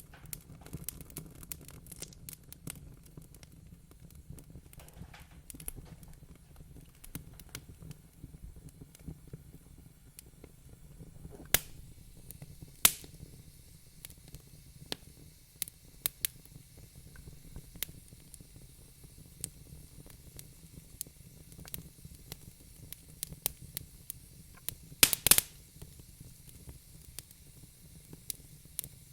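Wood fire crackling in a fireplace: irregular sharp pops, a few of them louder, over a low steady rumble of the flames.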